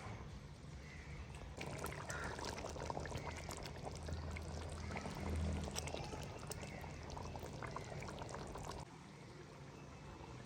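Liquid being poured, a splashing flow with small crackles that starts about a second and a half in and cuts off suddenly near the end.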